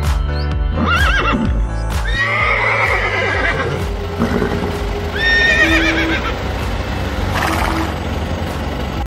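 A horse whinnying about four times, the calls wavering in pitch, over steady background music.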